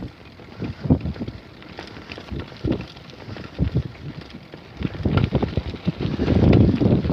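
Wind buffeting the microphone of a camera riding on a moving bicycle, with irregular knocks and rattles from the bike over a rough dirt trail, getting louder about five seconds in.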